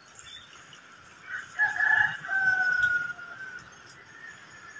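A single drawn-out bird call lasting about two seconds, dropping a little in pitch near its end.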